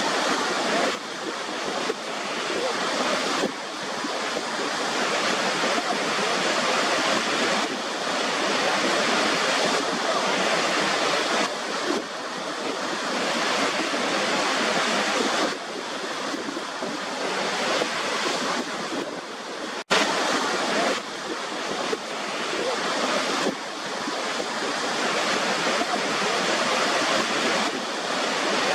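Waterfall water rushing and splashing in a steady, dense roar. Its level jumps abruptly several times, with a split-second dropout about twenty seconds in, where the recording is spliced.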